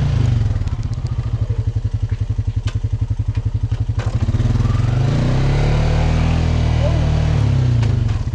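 Small off-road vehicle's engine ticking over at low revs with a fast, even putt-putt, then revving up about four seconds in and running harder, its pitch rising and falling with the throttle.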